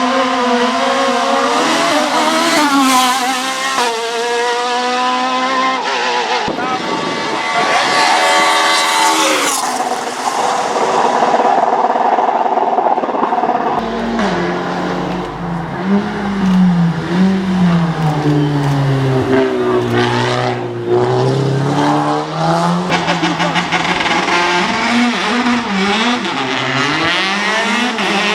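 Hillclimb race car engines driven flat out, the pitch climbing through each gear and dropping back at every shift and under braking.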